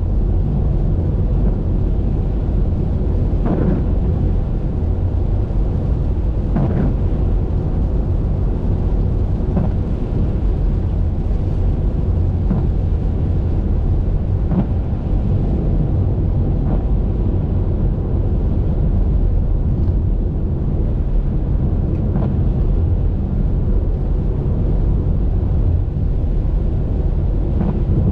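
Car driving in the rain: a steady, loud low rumble of road, tyres and engine, with faint ticks every few seconds.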